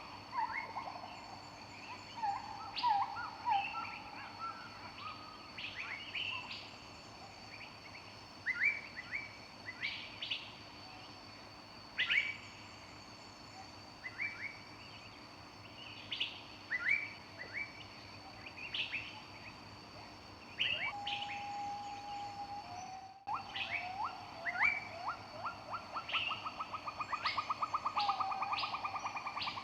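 Several songbirds singing in a forest: short high chirps and whistled notes from different birds, overlapping, with a rapid trill starting a little past the middle and running on.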